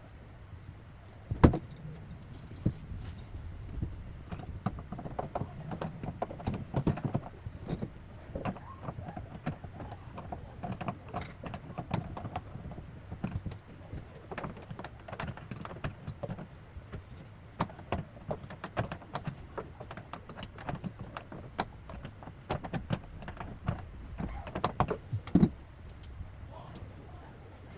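Irregular metallic clicks, clinks and knocks of hand tools and plumbing fittings being handled during faucet work, with two sharper knocks about a second and a half in and near the end.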